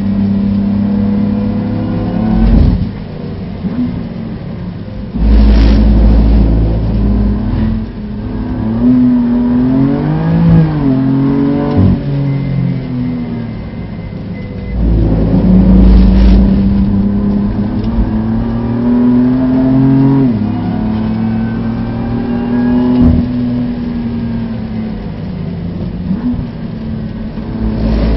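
BMW F80 M3's twin-turbo straight-six heard from inside the cabin, pulling hard and easing off in turn. Its pitch climbs and drops several times with gear changes and throttle lifts. Two spells of heavy low rumble come about five and fifteen seconds in.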